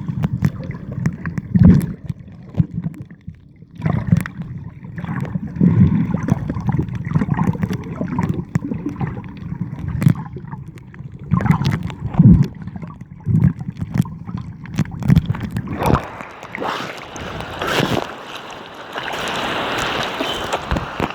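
Wind buffeting the microphone in irregular low gusts, with sea water rushing and hissing that grows louder over the last five seconds.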